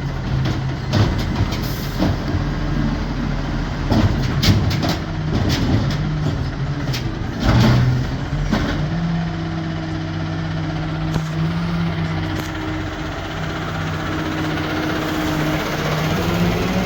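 New Amrep automated side-loader garbage truck working: the engine runs steadily under hydraulic load, with a series of knocks and bangs in the first half from the lifting arm and cart during a dump, the loudest about seven seconds in. A steady hydraulic whine follows, and the engine pitch rises near the end.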